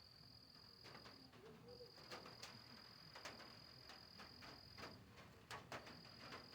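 Faint, steady high-pitched trill of a cricket, breaking off briefly about a second in and again near five seconds, with scattered drips and taps of light rain.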